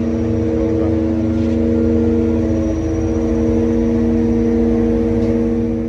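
Truck engine running at raised revs to drive the loader crane's hydraulics while it lifts a pallet: a steady hum of several held tones over a low rumble.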